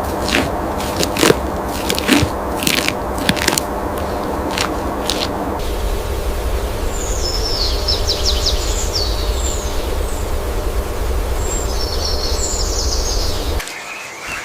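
Forest ambience: a run of sharp cracks and snaps for the first five seconds or so, then a steady low rumble with short bursts of high bird chirps twice. The sound drops away suddenly near the end.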